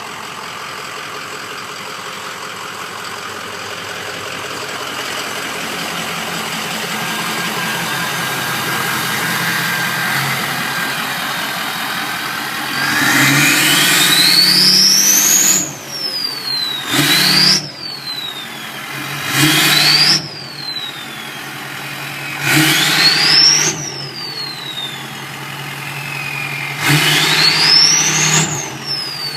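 Ford Power Stroke V8 turbo-diesel with an 8-inch stack exhaust idling steadily, then revved five times from about halfway in. With each rev a turbo whistle rises high and glides back down as the throttle is released.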